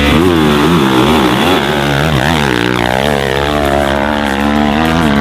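Dirt bike engine revving hard on a steep hill climb, its pitch rising and falling again and again as the rider works the throttle.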